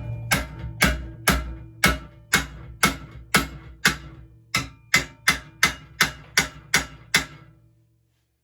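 A hammer repeatedly striking a bent metal pit bike part to knock it straighter, about two to three blows a second, each with a short metallic ring. The blows stop near the end.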